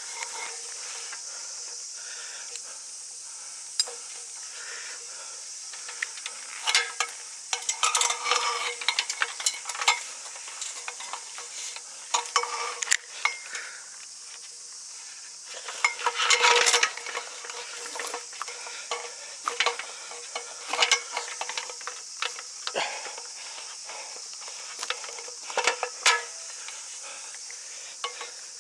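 Irregular crackling and rustling clicks over a steady high hiss, with louder busy stretches about a quarter of the way in and just past halfway.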